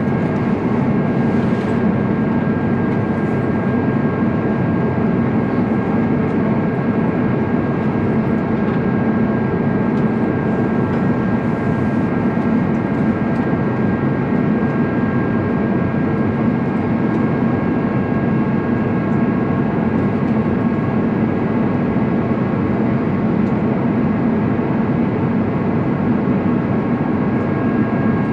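Airbus A350-900 cabin noise in flight: the Rolls-Royce Trent XWB engines and airflow make a loud, steady deep rumble, with a few steady high tones running through it.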